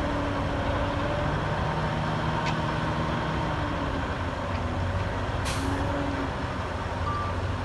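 Heavy diesel earthmoving machinery running steadily, with a short burst of air hiss like a truck's air brake about five and a half seconds in.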